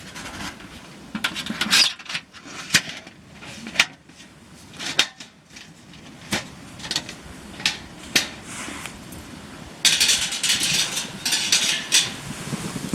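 Camp gear being handled: a string of sharp clinks and knocks, with a longer spell of rustling and clatter about ten seconds in.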